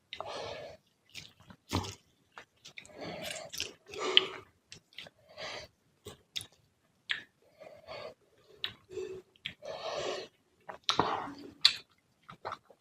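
A person chewing and eating fish curry with rice close to the microphone: irregular wet mouth sounds, one after another, with sharp clicks.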